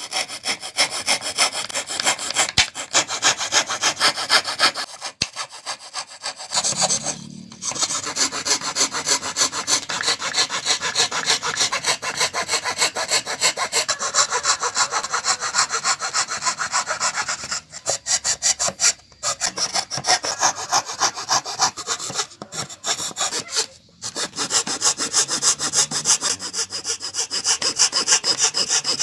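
Hand saw cutting through wood in quick, even back-and-forth strokes, about three a second, stopping briefly a few times.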